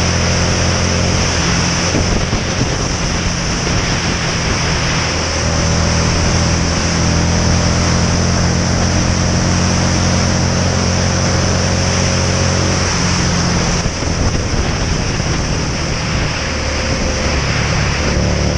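Motorcycle engine running at a steady speed, with loud wind rushing over the microphone. The engine note drops away briefly about two-thirds of the way through, then climbs again near the end.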